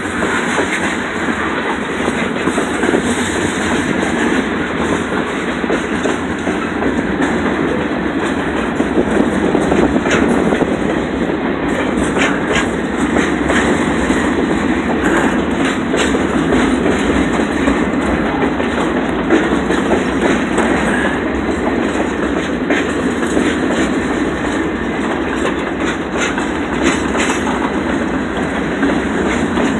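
Freight train cars rolling steadily past at close range, a continuous rumble with the wheels clicking over the rail joints.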